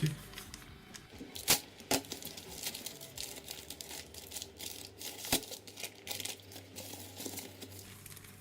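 Small plastic parcel packaging being handled and opened by hand, crinkling and tearing, with scattered small ticks and a few sharper clicks, the loudest about one and a half, two and five seconds in.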